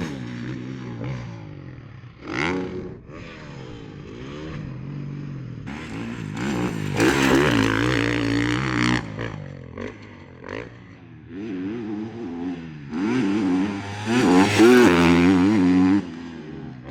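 Motocross bikes running on a track, their engines revving up and down, with two louder stretches: one about six seconds in and another near the end.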